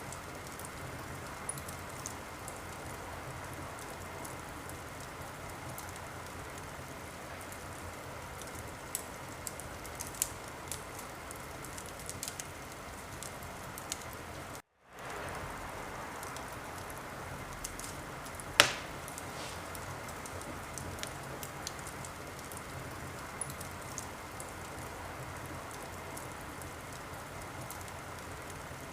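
Wood fire crackling in a fireplace: a steady hiss with many small scattered pops and one loud sharp pop about two-thirds of the way through. About halfway, the sound cuts out for a split second and fades back in.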